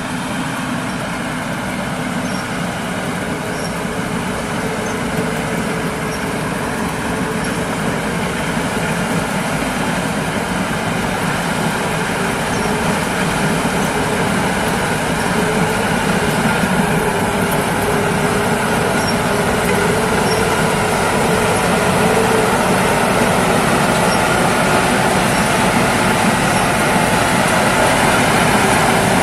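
Thai Seng rice combine harvester running in the field, its engine and threshing machinery making a steady mechanical drone that grows gradually louder.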